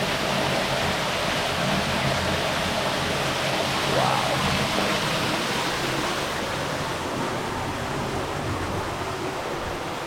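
Waterfall rushing steadily, a constant hiss of falling water that eases slightly in the second half.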